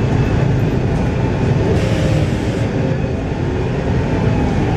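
Volvo B7RLE single-deck bus's seven-litre six-cylinder diesel running with a steady low rumble. A short hiss, typical of the bus's air system, sounds about two seconds in.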